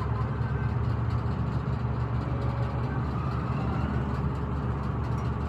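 A heavy engine running steadily at an even speed, a constant low hum.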